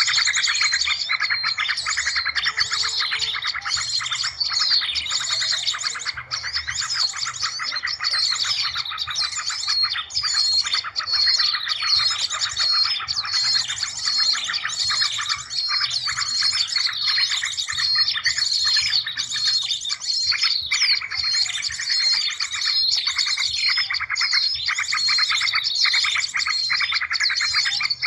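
Dense chorus of small songbirds: many overlapping chirps and fast trills going on without a break. This is a bird-lure (pikat) call track of the kind used to draw small birds in.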